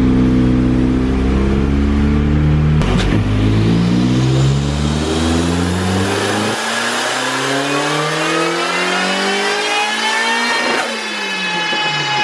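Turbocharged Mazda MX-5 four-cylinder engine doing a dyno power run: the revs climb steadily from about three seconds in, then fall away sharply near the end. A sharp click sounds as the climb begins.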